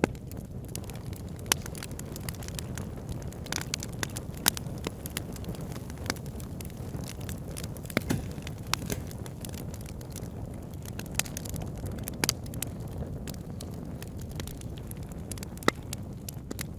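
Wood fire burning in a fireplace: irregular sharp crackles and pops, a few louder than the rest, over a steady low rumble of the flames.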